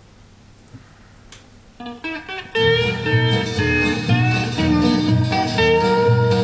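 Instrumental introduction of a 1954 country-and-western record. Faint hiss for nearly two seconds, then a few single notes, and from about two and a half seconds in the full band plays steadily.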